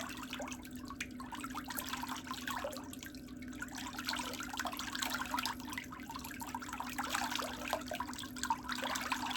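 Water trickling and dripping in irregular small splashes over a steady low hum.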